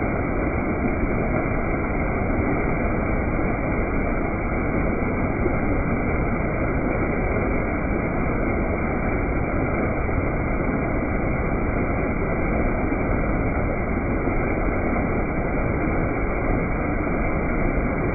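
Waterfall, its falling water making a steady, unbroken rushing noise.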